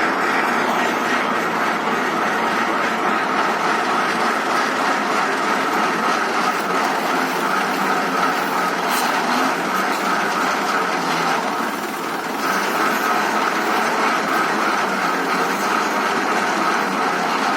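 Tractor engine driving a borewell pump lifting machine, a steady mechanical running clatter that dips briefly about twelve seconds in.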